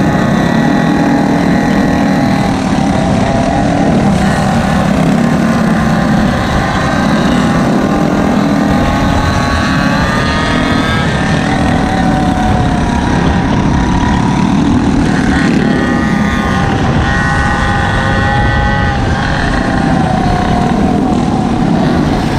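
Small engines of gas scooters and mini bikes running during a ride, their pitch rising and falling as the throttles open and close, over a constant low rush.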